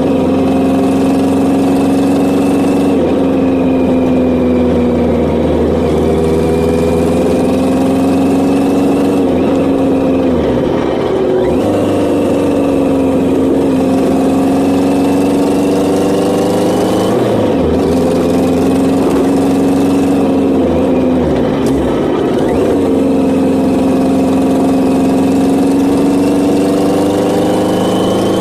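1983 Yamaha XJ900's air-cooled inline-four engine running under way, its note steady and then dipping and climbing again several times as the throttle and gears change.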